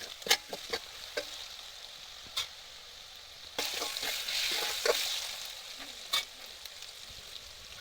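Chicken and spices sizzling in a pan as they are stirred, with sharp clicks of the stirring utensil against the pan. The sizzle swells for a couple of seconds near the middle.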